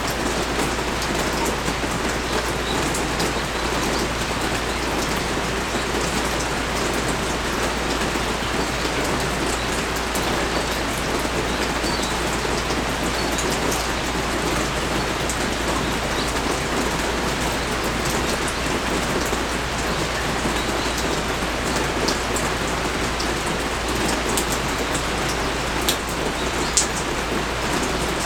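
Steady heavy rain pouring down, an even hiss of drops on surfaces, with a few sharper drop ticks near the end.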